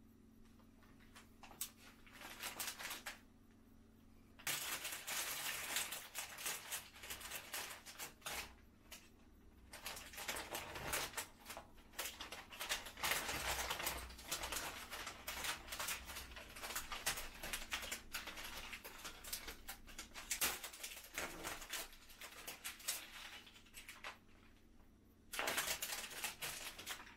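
Paper wrapping of a tulip bouquet crinkling and rustling as it is handled and opened by hand, in dense crackly bursts with a few short pauses.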